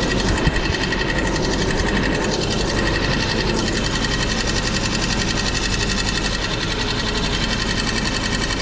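Honda Civic's D16 four-cylinder engine idling steadily, with a fast, even ticking clatter running through it.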